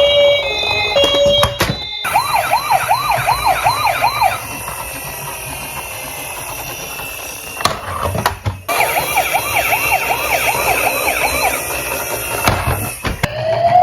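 Emergency-vehicle siren sounds, cut together: a fast yelp sweeping up and down about four times a second, which stops abruptly and comes back after a few seconds. Near the end a slow rising wail starts.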